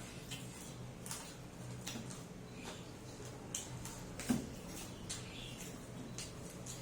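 Eating sounds close to the microphone: irregular small clicks and smacks of chewing, with a sharper click about four seconds in, over a low steady hum.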